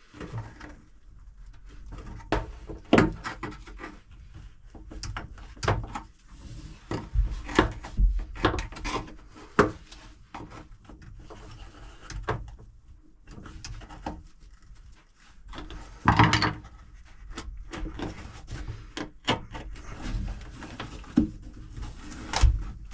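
Vice grips working a seized, corroded engine-mount stud: irregular metal clicks, scrapes and knocks as it is turned, with one louder clatter about sixteen seconds in.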